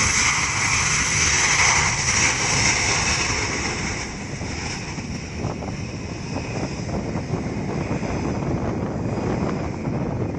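Airliner's engines passing: a loud high whine and rush that fades over the first four seconds or so, leaving a steady low rumble.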